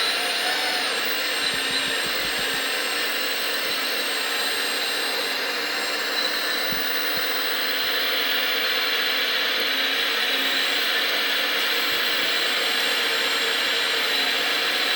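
Small motors whirring steadily, with a constant high whine over the noise.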